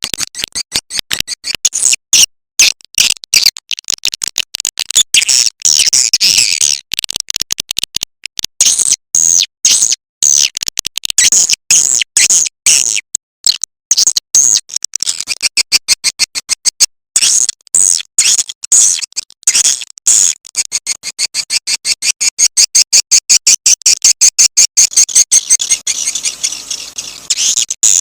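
Recorded swiftlet lure call: a dense, high-pitched twittering of rapid chirps and click trains, going on with brief breaks and turning into fast, very even pulsing near the end. It is the 'call sound' played in swiftlet houses to attract edible-nest swiftlets.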